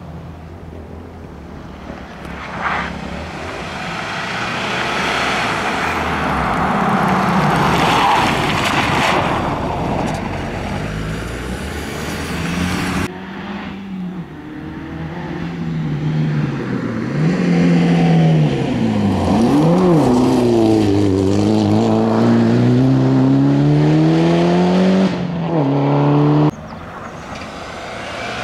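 Rally car engines during stage reconnaissance runs. First a car approaches with building engine and road noise, then it cuts off abruptly. After that an engine is heard close up, its pitch dropping around the middle and then climbing steadily as it accelerates, until it too cuts off abruptly.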